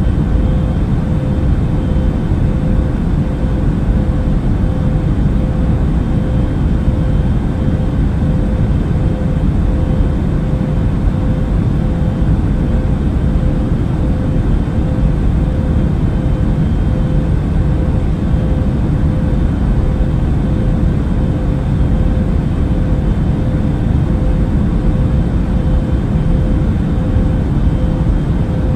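Steady, unchanging airliner noise in flight, a deep rushing drone of engines and airflow, with a faint steady hum tone running through it.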